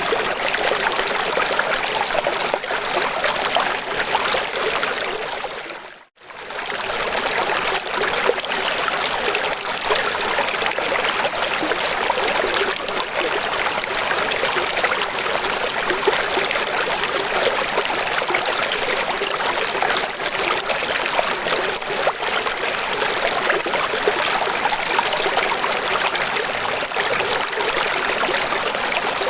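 Steady rushing, splashing water, an even hiss of flowing water like a stream or waterfall. It fades out briefly to silence about six seconds in and comes straight back.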